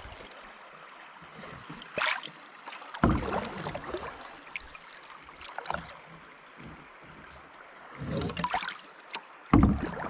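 Canoe paddle strokes in river water: several irregular splashing strokes over a quiet background, the loudest near the end.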